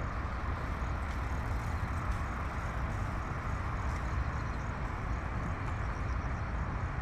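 Steady rumble of city road traffic, an even wash of sound with no single vehicle standing out. Faint, evenly repeated high chirps sound over it.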